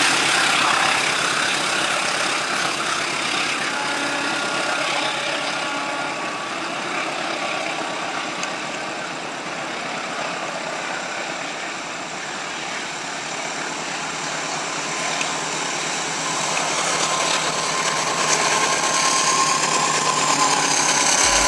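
Passenger train coaches running past on the rails, a steady noise of wheels and carriages on the track. It eases a little midway and builds again near the end.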